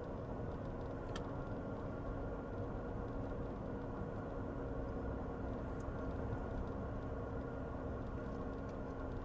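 Steady noise of a car driving, engine and road noise with a faint steady hum, without any impact.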